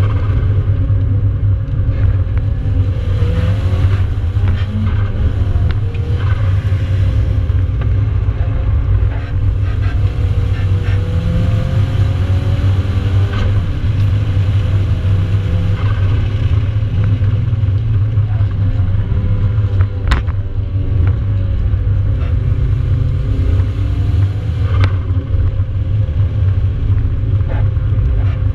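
Nissan 200SX engine heard from inside the cabin at track speed, its revs rising and falling again and again as the car accelerates, brakes and changes gear, over a heavy low road and wind rumble. A single sharp click about twenty seconds in.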